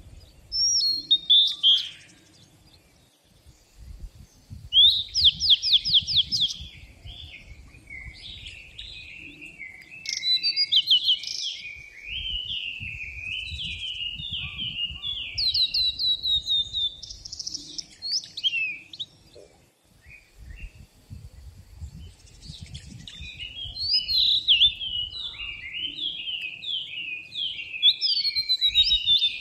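Songbirds singing in a forest: short fast trills of high falling notes a few times, and long runs of quick repeated warbled phrases, with several birds overlapping. A low rumble comes and goes underneath.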